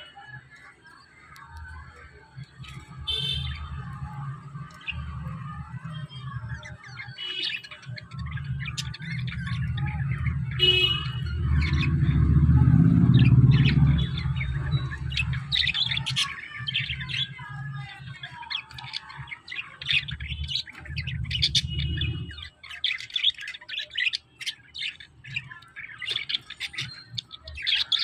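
Several pet lovebirds chirping and squawking in rapid, overlapping short calls. A low rumble runs underneath for most of the time, swelling about halfway through and stopping abruptly about three quarters of the way in.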